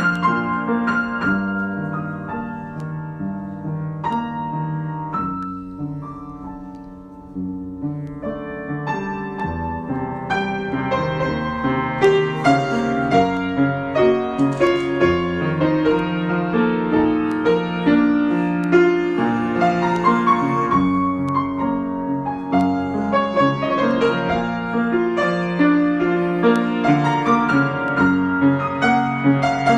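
Piano improvisation, many notes played freely without a steady beat. It softens and thins out about five seconds in, then builds back fuller and louder from about seven seconds on.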